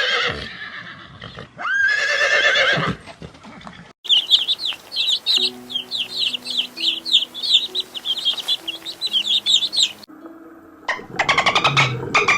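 Animal calls in three short takes. First come drawn-out pitched calls. After about four seconds, rapid high chirping plays over a few low held musical notes. Near the end, quick pulsing calls repeat several times a second.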